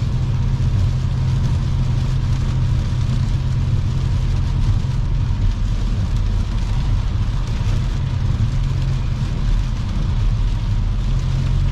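Steady road noise inside a car's cabin on a wet road: a low, even rumble with tyre hiss.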